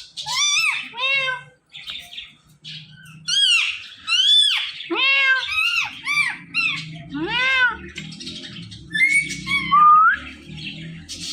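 Indian ringneck parakeet calling: a quick series of short, harsh squawks, each rising then falling in pitch, coming in clusters of two or three.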